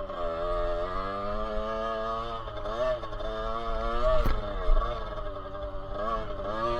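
Dirt bike engine revving up and easing off several times, its pitch rising and falling, with a couple of sharp knocks about four seconds in.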